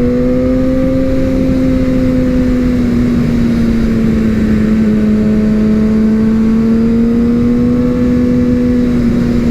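Suzuki GSX-R750 sportbike's inline-four engine running at steady revs while riding, its pitch easing slightly up and then down and back up, over a steady noisy rush.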